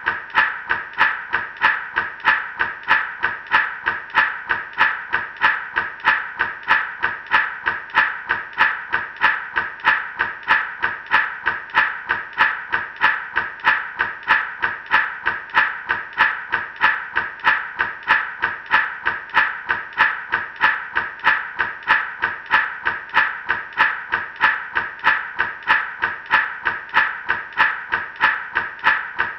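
Gourd rattle shaken in a steady, even rhythm, about two shakes a second, each shake a dry rush of seeds against the gourd.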